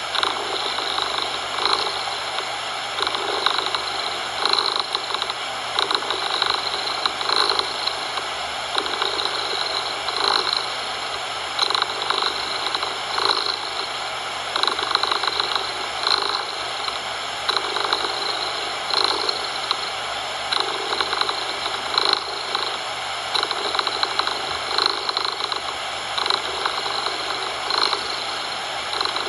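Domestic cat purring, swelling in and out about every second and a half with each breath, over a steady hiss of artificial coloured noise.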